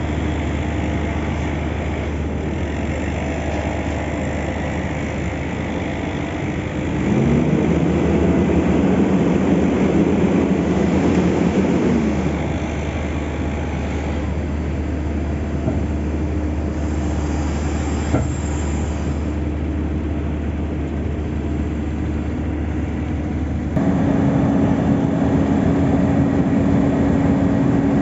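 Heavy diesel road-paving machinery running steadily during asphalt laying, with one engine revving up and back down between about 7 and 12 seconds in. The sound changes suddenly about 24 seconds in.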